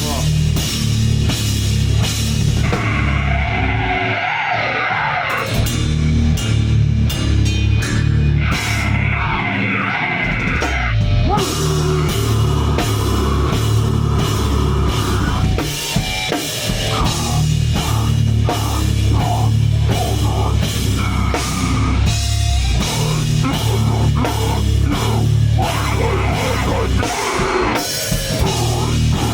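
Live heavy rock band playing loud: drum kit with cymbals, distorted guitars and bass. The heavy low end drops out briefly about four seconds in and again about ten seconds in.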